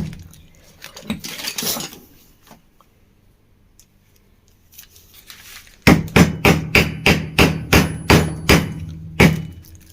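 Hammer tapping a new 6000-series ball bearing into a ceiling fan's housing: a few loose knocks and handling noise, then a quick, even run of about a dozen sharp taps at about four a second, starting about six seconds in.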